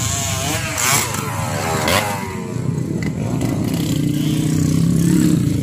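Motocross dirt bike engines revving hard as they accelerate, with several overlapping rising sweeps in pitch over the first two seconds or so. After that the engines settle into a steadier low drone.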